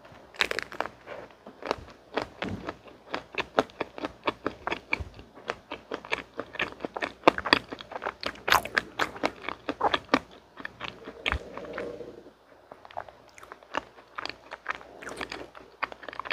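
Close-miked biting and chewing of a mint chocolate ice cream sandwich, a dense run of quick crunchy, wet mouth clicks that eases briefly about three-quarters of the way through.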